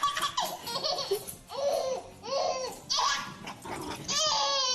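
A person laughing hard in a run of short, pitched bursts, with a wavering laugh near the end.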